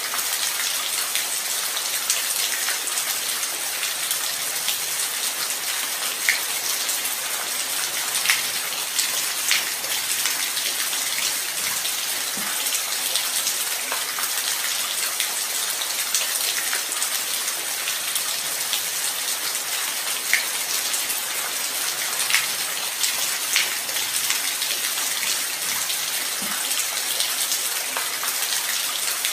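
Steady light rain: an even hiss of falling rain with many scattered, sharper individual drops landing close by.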